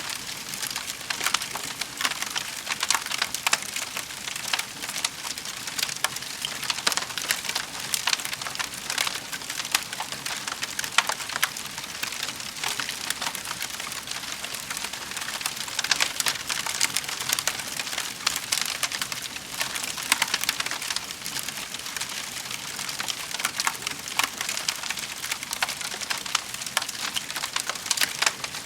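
Wood fire in a fireplace crackling steadily: a dense stream of small pops and snaps over a soft hiss.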